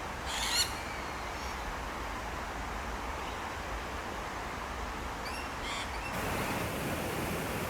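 Outdoor ambience, a steady background hiss, with short high bird calls about half a second in and again briefly about five and a half seconds in.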